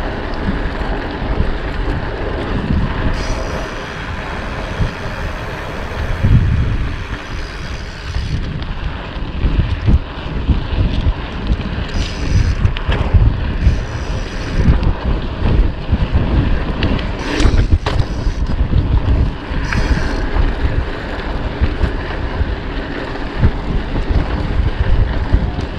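Wind buffeting the microphone of a rider on a moving bicycle, heard as an irregular gusty rumble. A few shorter higher-pitched sounds come and go over it.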